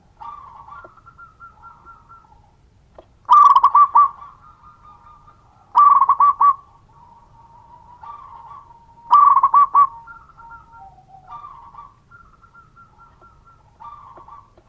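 Zebra dove (perkutut) cooing: three loud bursts of rapid, stuttering notes a few seconds apart, with fainter drawn-out bird calls between them.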